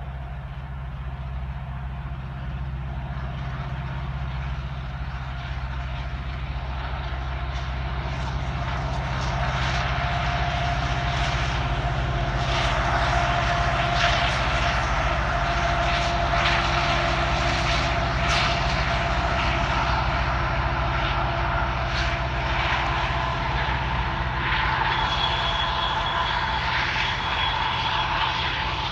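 Union Pacific EMD SD70ACe diesel-electric locomotives passing with a steady low engine drone that grows louder as they approach. Once the train is alongside, the intermodal cars roll by with repeated sharp clicks of wheels over rail joints and thin steady squealing tones from the wheels.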